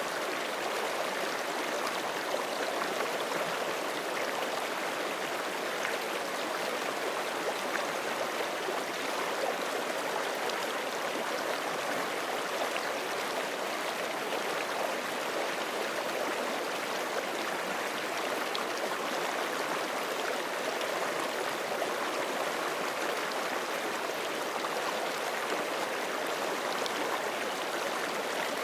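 Forest creek running over rocks: a steady, even rush of flowing water with no breaks.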